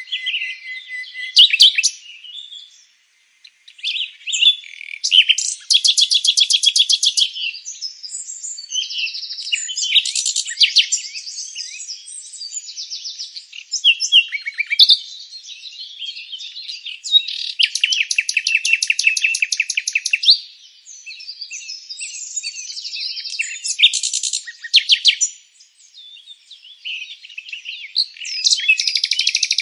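Songbirds singing, a continuous run of high chirps and songs with several fast buzzy trills lasting a second or two. There are short lulls about three seconds in and again near the end.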